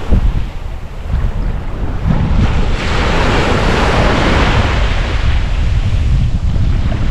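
Ocean waves breaking and washing up the shore, with wind buffeting the microphone as a heavy rumble. One wave's wash swells about three seconds in and fades toward the end.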